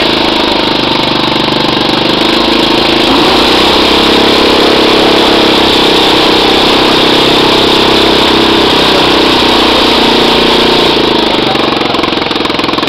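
The engine of a small home-built mining tractor running steadily, a little louder from about three seconds in and easing near the end.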